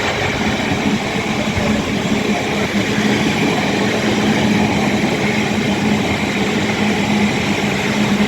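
Class 350 Desiro electric multiple unit giving out a steady hum with one constant low tone as it stands or creeps along the platform.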